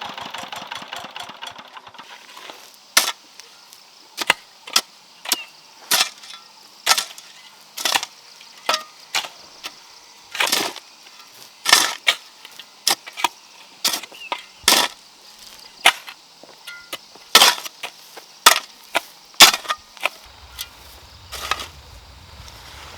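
A small engine's rhythmic running fades out in the first two seconds. Then comes a long run of sharp chopping strikes, roughly one a second and somewhat uneven, like a hand tool striking wood or hard ground.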